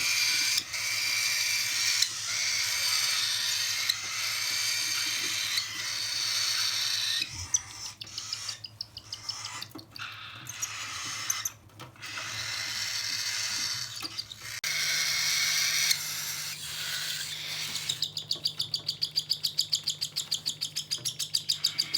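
Cockatiel chicks giving their raspy begging calls while being hand-fed, a continuous hissing rasp that breaks up in the middle. Near the end it turns into a fast, even pulsing call, about six a second, the rhythm of a chick pumping as it takes the food.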